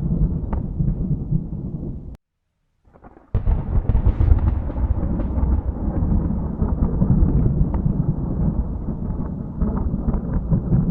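Thunder rumbling deeply with faint crackles. It cuts off abruptly about two seconds in, leaving about a second of silence, then a fresh loud rumble starts suddenly and rolls on.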